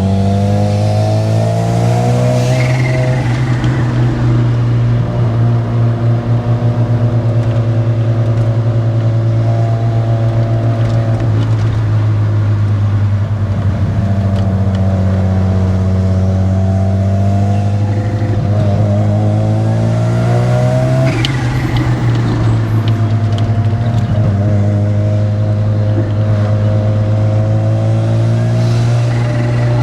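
Modified Mazda RX-7's 13B rotary engine pulling the car along at part throttle. Its pitch climbs slowly and then drops at gear changes several times, with one sharp click about two-thirds of the way through.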